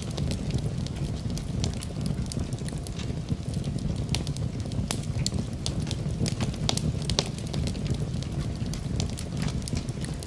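Wood fire burning in a fireplace, crackling with many sharp, irregular pops over a low, steady rumble.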